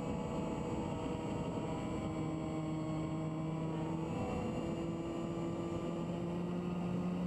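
Electric RC airplane motor and propeller whining in flight, a steady pitch that steps up about halfway through as the throttle is changed during a knife-edge pass.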